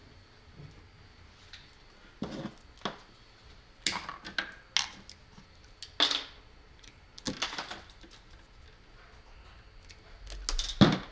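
Small tools and wire being handled at a workbench: irregular clicks, knocks and short scrapes, with a louder knock near the end.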